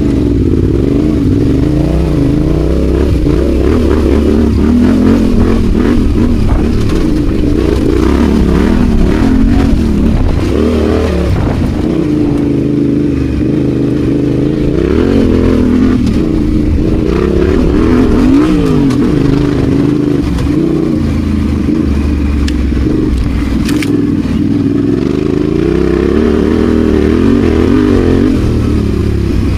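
Adventure motorcycle engine running while riding off-road, its pitch rising and falling again and again as the throttle is opened and closed.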